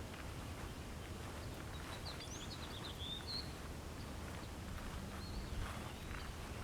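A songbird singing a short run of quick high chirps about two seconds in, with one more brief call later, over steady outdoor ambience with a low rumble of wind on the microphone.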